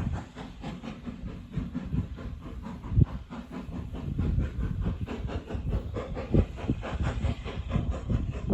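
A heritage railway train running on the line, with a steady noise broken by irregular knocks and one sharper knock about three seconds in.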